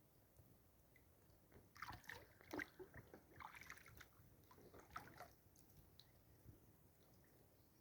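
Faint water splashing and sloshing around a kayak on a lake: a few irregular splashes between about two and five seconds in.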